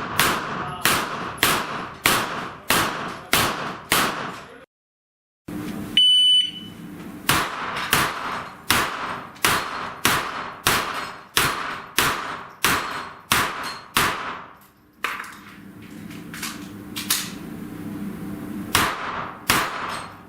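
Rapid gunshots at a steel-plate shooting stage, about two a second. The audio drops out briefly, an electronic shot-timer start beep sounds about six seconds in, and another rapid string of shots follows, pausing from about 15 s before shooting resumes near the end.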